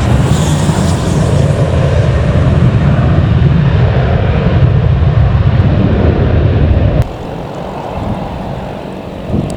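Loud, deep, steady jet noise from a departing Boeing 737-800's CFM56-7B turbofan engines, cutting off abruptly about seven seconds in. After that, quieter wind noise on the microphone.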